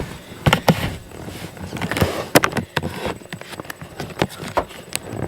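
A run of irregular knocks and clatters, a dozen or so sharp hits spread unevenly, with rustling between them.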